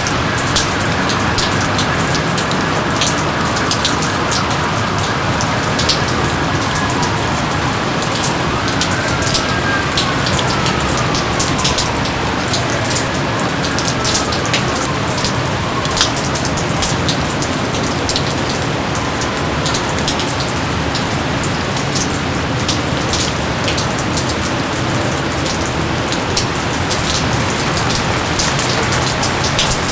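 Steady rain falling, with many close drops hitting a surface as sharp little taps through the constant patter.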